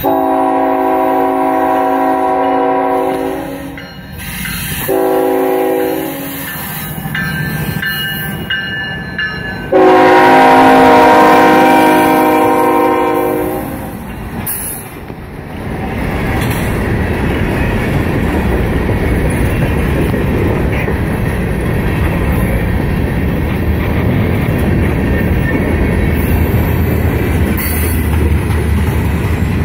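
CSX Tier 4 diesel locomotive sounding its horn: a long blast, a short one, then a long and loudest one. The locomotives then pass close by with their engines working under power, followed by covered hopper cars rolling by with a steady rumble and wheel clatter.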